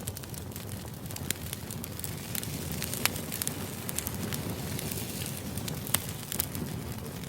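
Crackling fire: a steady low rumble with irregular sharp pops and snaps scattered through it.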